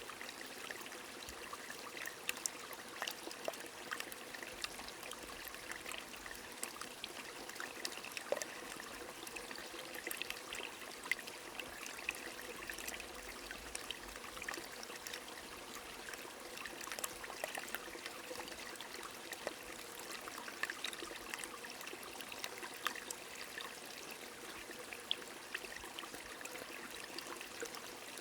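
A small stream trickling steadily under light rain, with many small, sharp drop ticks scattered over the even rush of water.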